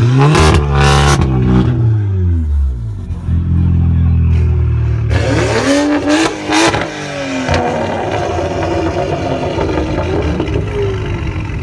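Car engine revved hard twice: a rev that climbs and drops back near the start, steady running for a few seconds, then a second, shorter rev about six seconds in before it settles again.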